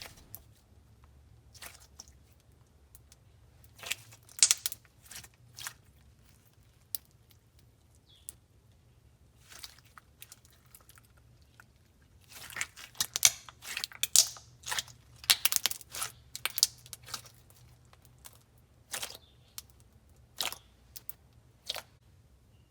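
Clear slime with foam beads and rubber wafer pieces being squeezed and worked by hand, crackling and popping in bursts of sharp little clicks. The densest run comes in the middle.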